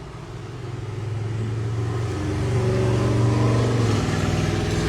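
Car engine accelerating, heard from inside the car, its note growing louder and rising for about three seconds, then stepping down in pitch about four seconds in.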